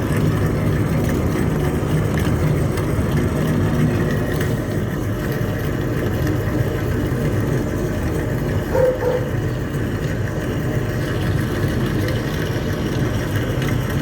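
Flake exhaust fan running steadily, its motor and blades giving a constant low rush of air.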